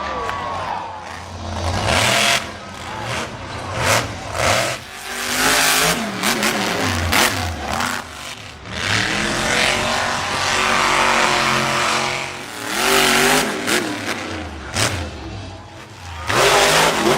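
Monster truck engine revving hard, its pitch climbing and falling again and again as the throttle opens and closes, with several sharp bangs in between.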